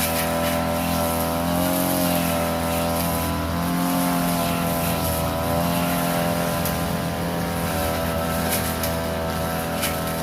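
Small petrol engine of a grass-cutting machine running steadily at high speed, its pitch wavering slightly.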